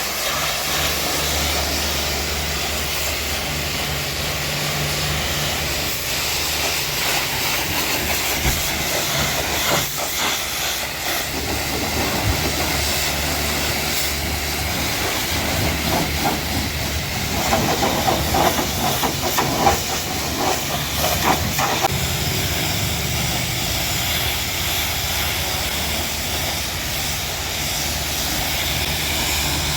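Pressure washer jet spraying water onto a car's body: a steady loud hiss with the machine's low hum underneath, the spray growing rougher and louder for a few seconds past the middle.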